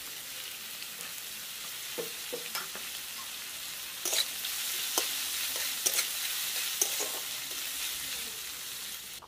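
Chopped onion, green chili and garlic sizzling in hot mustard oil in a wok, with a spatula stirring and scraping against the pan in sharp clicks; the sizzle grows louder about four seconds in as the stirring picks up.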